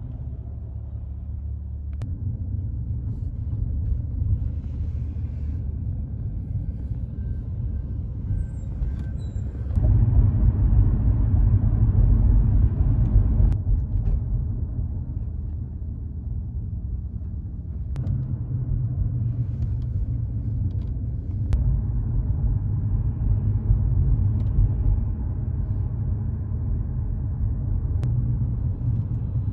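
Fire trucks' heavy diesel engines running in a low, steady rumble, across several short clips joined with abrupt cuts; loudest from about ten to thirteen seconds in.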